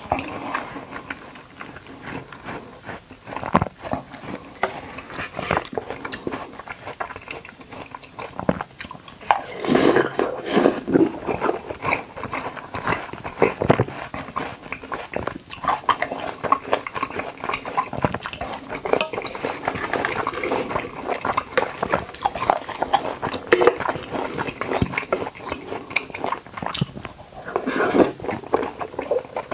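Close-up chewing and biting of juicy watermelon chunks and konjac jelly: wet mouth sounds in an irregular stream, louder around ten seconds in and again near the end.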